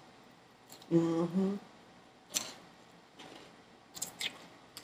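Chewing a mouthful of salad greens close to the microphone, with a few sharp crunches and mouth clicks. A short hummed "mm" about a second in is the loudest sound.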